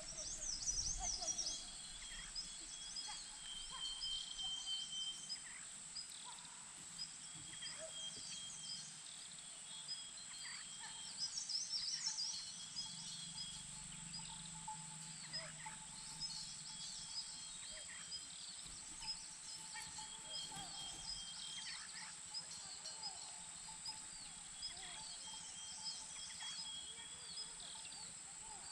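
Birds chirping and calling: many short high chirps, busiest about a second in and again around eleven seconds, with faint held call notes recurring every couple of seconds, over a steady high hiss.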